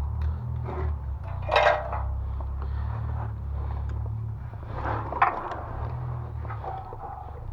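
Scattered clinks, knocks and scrapes of hands-on work, with two louder short bursts, over a steady low rumble.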